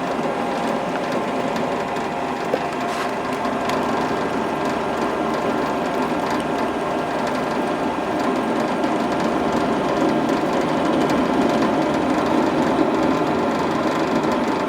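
A workshop power tool running steadily under load.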